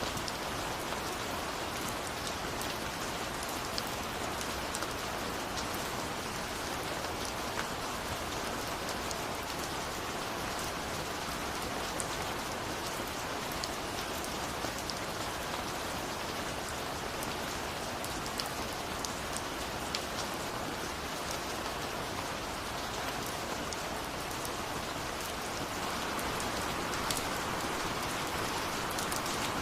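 Steady rain falling, an even hiss with many small drops pattering on a surface; it swells slightly near the end.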